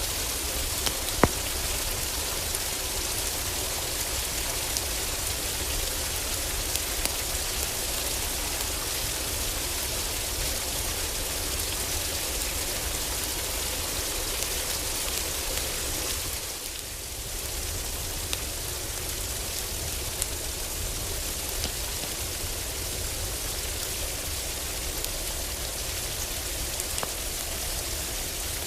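Heavy rain falling steadily on a roof, with a few sharp pops from a crackling wood fire. The rain noise dips briefly about two-thirds of the way through.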